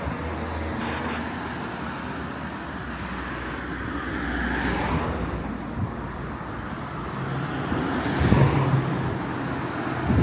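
Town street traffic: cars driving past with engines running, swelling as one passes about halfway through and again near the end.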